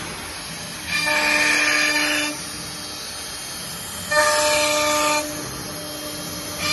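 Spindle of an automatic-tool-change CNC router running with a steady whine. It rises into louder, harsher stretches of about a second, once about a second in and again about four seconds in, as the bit works the material.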